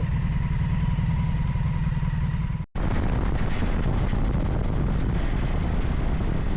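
Vehicle engine running with road noise while driving, a steady low rumble. It drops out suddenly a little under three seconds in, then carries on with more hiss.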